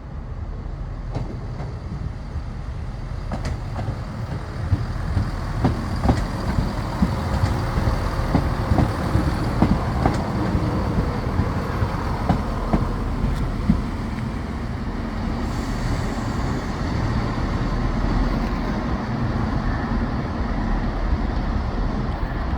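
Diesel train passing at close range: a steady low rumble, with the wheels clicking sharply over rail joints from about five to fourteen seconds in.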